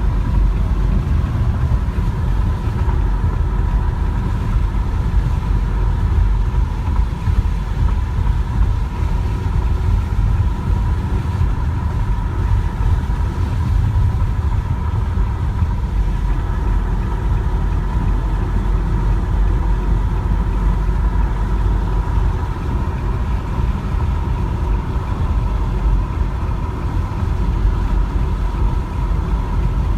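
A car driving along, with a steady low rumble of engine and road noise and a faint steady hum over it.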